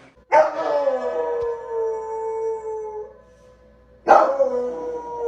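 Dog howling: two long howls, each sliding down in pitch at the start and then held steady; the first lasts about three seconds, the second begins about four seconds in.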